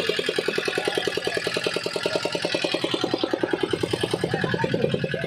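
Fishing boat's engine running steadily, with an even beat of about eight or nine pulses a second.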